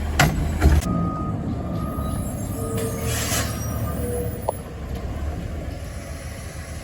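Front-load garbage truck engine running, loud at first and easing off about a second in, with a short hiss of air about three seconds in and a few brief beeps.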